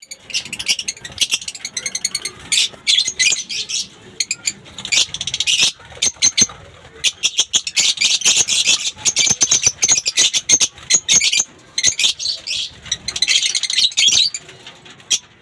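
Lovebirds chirping and chattering: rapid runs of short, shrill, high-pitched calls in bursts, with brief pauses between runs.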